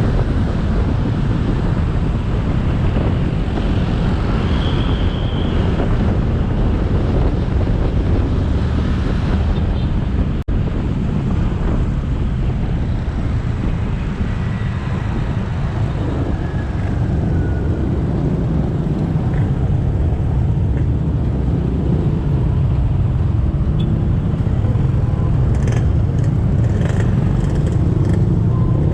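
Motorbike ride: the bike's engine running under heavy wind rumble on the helmet or bike-mounted camera's microphone, with road and traffic noise. The sound cuts out for an instant about ten seconds in.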